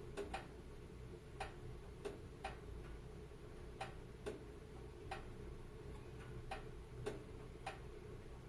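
Wood fire crackling in a fireplace: sharp pops at an uneven pace, about one or two a second, over a low, steady rumble of the burning fire.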